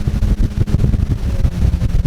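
Wind buffeting the microphone over a low, steady engine drone.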